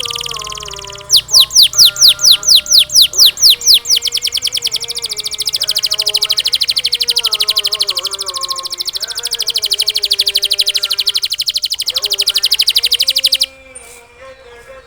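Domestic canary singing in trills: loud downward-sweeping notes about six a second, then from about four seconds in a faster, even trill, cut off suddenly near the end. Background music with a melody runs underneath.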